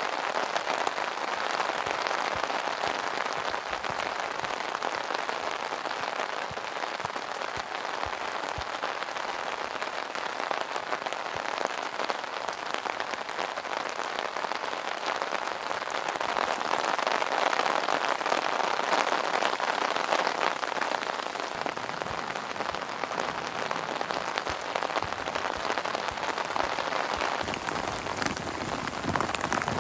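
Heavy rain pattering on a plastic tarp shelter overhead, a dense, steady patter of drops that grows louder for a few seconds past the middle.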